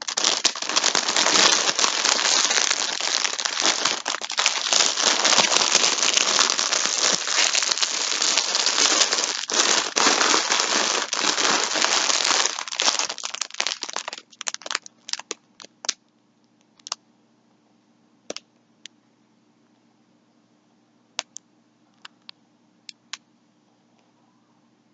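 Plastic yarn packaging crinkling and rustling continuously as it is handled, stopping about fourteen seconds in, followed by a few scattered light clicks.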